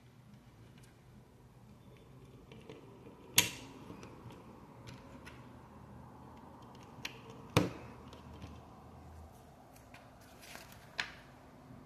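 Small plastic Lego bricks clicking and tapping as they are handled and pressed together, with a few fainter ticks and three louder sharp clicks, a few seconds apart.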